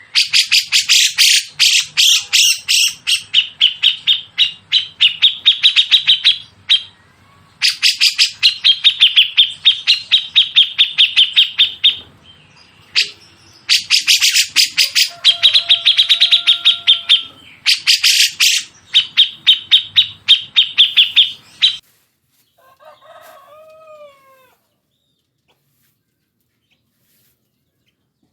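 Songbird singing fast, harsh chattering strings of rapid notes in bursts of a few seconds each, followed by a few faint down-slurred whistles.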